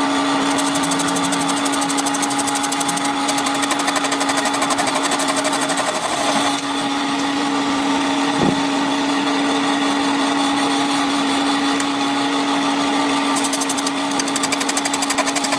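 A power tool running steadily, a constant motor hum over dense rasping noise. It dips briefly about six seconds in, and there is a single knock about eight and a half seconds in.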